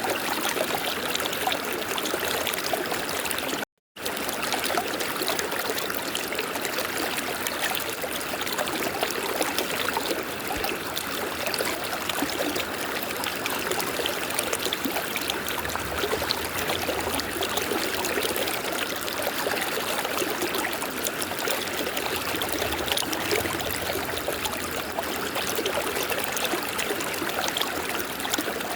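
River water flowing steadily, a continuous rushing and trickling, with the sound cutting out completely for a moment about four seconds in.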